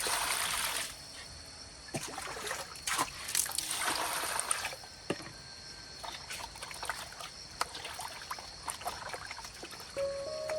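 Water splashing and trickling in short spells, with scattered light knocks and clicks.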